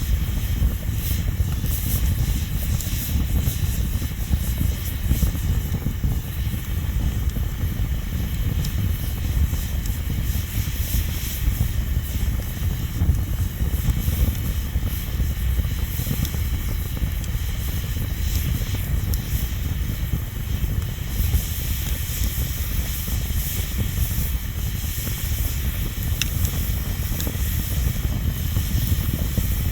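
Bonfire burning with a steady low rumble and scattered crackles and pops from the burning wood.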